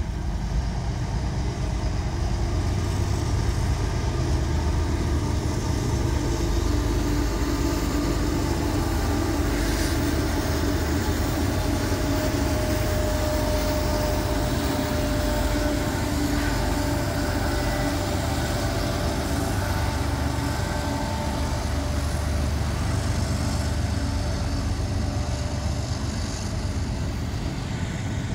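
Union Pacific double-stack intermodal train passing close by: its diesel locomotives' engines running as they go past, then the steady rumble of the container cars rolling on the rails.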